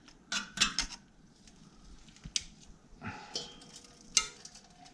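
Metal hand tools and parts clinking and tapping: a quick cluster of sharp clicks in the first second, then single clinks a couple of seconds apart.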